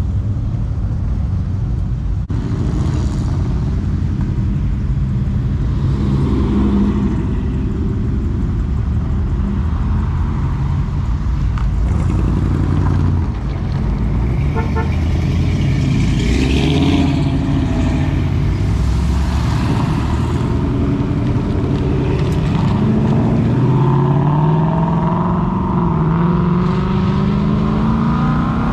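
Car engines running as cars drive past at low speed. Near the end one engine rises steadily in pitch as it accelerates away.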